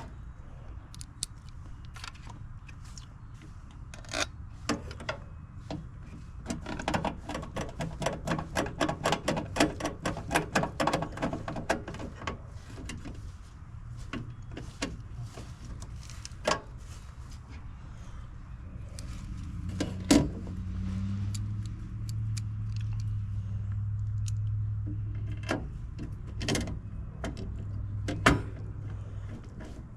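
Small metallic clicks and rattles of hand tools and parts while an HVAC control board is being swapped, with a quick run of repeated clicks for several seconds early on. A low steady hum comes in for the second half.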